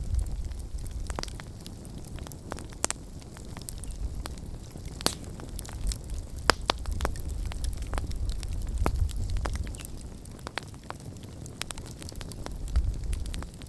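Wood campfire crackling, with many irregular sharp pops and snaps over a low rumble that swells and fades.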